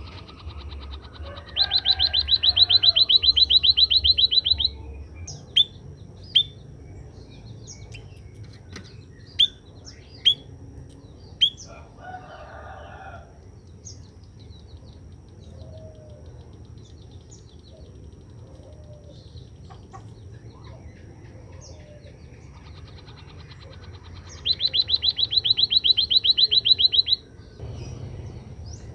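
Emprit kaji (white-headed munia) singing after being sunned: two long, rapid, high-pitched pulsed trills of about three seconds each, one near the start and one near the end, with short sharp chirps between them.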